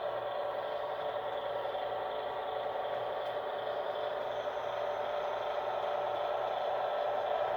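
HO scale model diesel locomotives (an ABBA set of F-units) running on the layout track: a steady mechanical hum with light rattle, getting slightly louder near the end.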